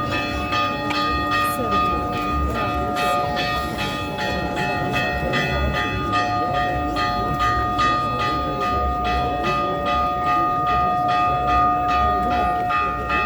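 Church bells rung in quick repeated strikes, about three a second, their tones hanging on between strokes, over crowd chatter.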